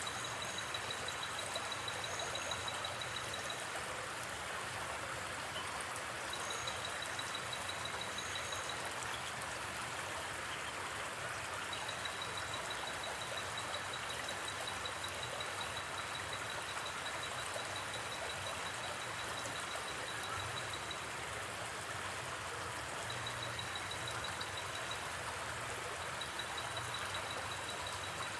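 Flowing river with a steady, even rush of water. Over it, a high, rapid insect-like trill comes and goes in runs of a few seconds, the longest running for about nine seconds in the middle.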